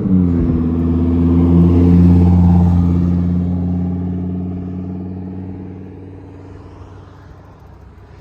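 A motor vehicle's engine passing close by, a steady drone that grows to its loudest about two seconds in and then fades away.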